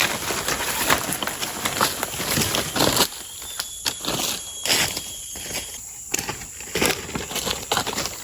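Irregular crunching and rustling of dry leaves and sticks on the forest floor, like footsteps or branches being handled, over a steady high-pitched insect hum. A thin high whistle runs for about two seconds midway.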